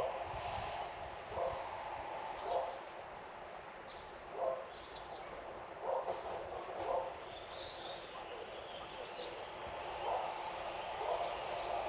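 Outdoor garden ambience with short animal calls, about eight of them at irregular intervals, and a few faint high bird chirps.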